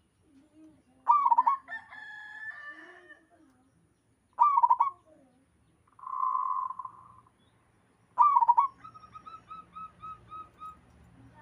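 Zebra dove cooing: three phrases about three to four seconds apart, each a sharp start rolling into quick warbled notes, the last trailing into a run of about eight short even notes. A short hiss-like sound comes between the second and third phrases.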